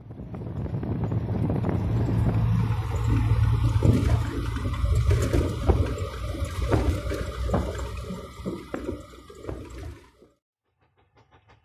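Triumph Spitfire's 1500 four-cylinder engine on twin SU carburettors running steadily on the move, under wind rushing through the open cockpit, with a few sharp knocks midway. The sound cuts off suddenly near the end.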